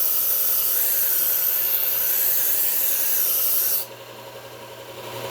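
A knife blade ground against a running power sharpener: a steady, loud hiss of steel on the abrasive that stops suddenly a little under four seconds in, leaving the machine's motor running on its own.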